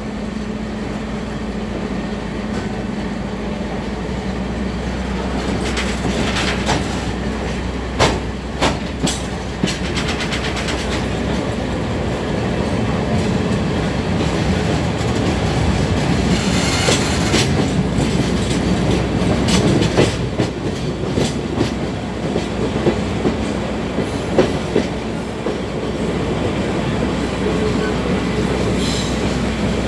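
Sagano Romantic Train's trolley car running along the track, its wheels clicking irregularly over the rail joints over a steady rumble and low hum.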